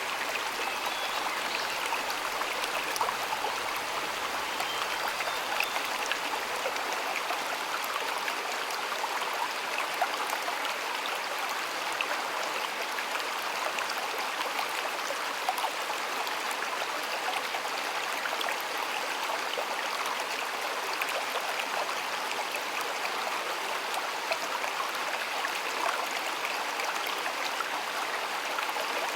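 Shallow stream running steadily, an even rushing with many small splashes and trickles.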